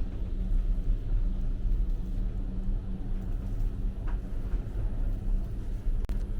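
Steady low engine rumble with a constant low hum. A faint short high tone sounds about four seconds in, and a sharp click comes near the end.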